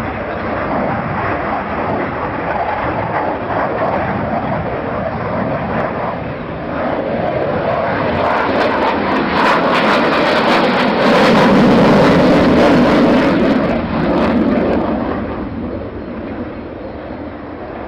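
Jet aircraft flying past at an air display: a steady rushing noise that builds to a loud, crackling peak a little past the middle, then fades as it moves away.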